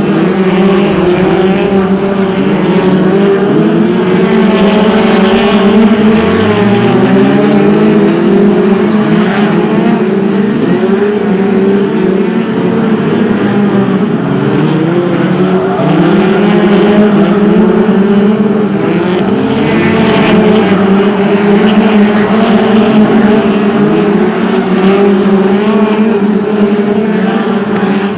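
A field of BriSCA F2 stock cars racing, several engines revving up and down at once and overlapping without a break.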